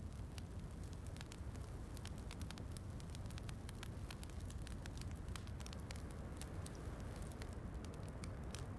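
Fireplace crackling with frequent small sharp pops over a steady low rumble, mixed with soft rain.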